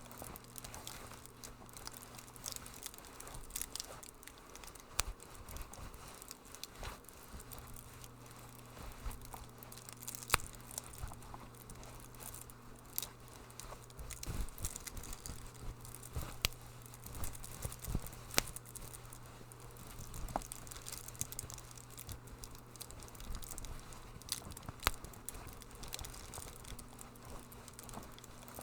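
Wood fire crackling in a fireplace: irregular sharp pops and snaps over a soft hiss, a few louder pops standing out, with a low steady hum underneath.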